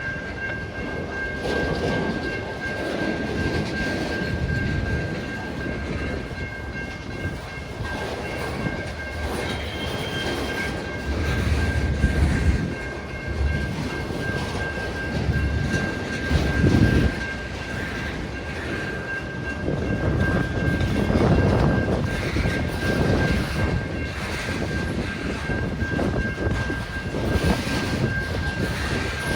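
Freight train cars rolling past with a continuous rumble and a few heavier thumps, under a thin, steady high-pitched squeal.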